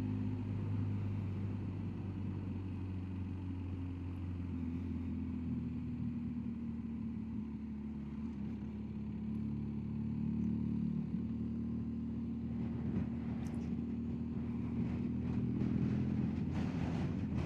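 BMW R1250GSA motorcycle's boxer-twin engine running steadily on the move, over a steady background of road and wind noise.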